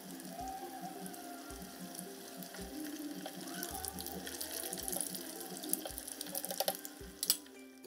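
Ube biko turon sizzling as they fry in a shallow pan of oil, a steady hiss, with a few sharp clicks of tongs against the pan near the end. Soft background music with a low beat about once a second plays underneath.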